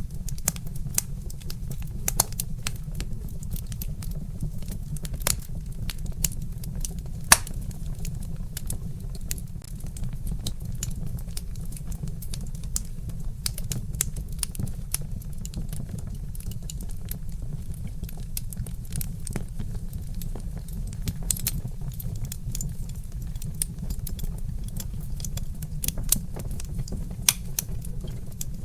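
Logs burning in a fireplace, crackling with irregular sharp pops over a steady low rumble, with one louder pop about a quarter of the way in.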